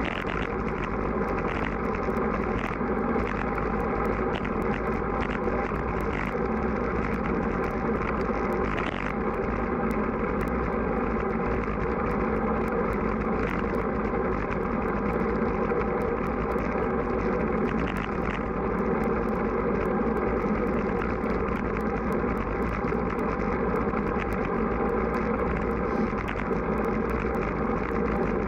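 Strong wind blowing over the microphone while riding a road bike: a steady rushing noise that holds at an even level, with no break.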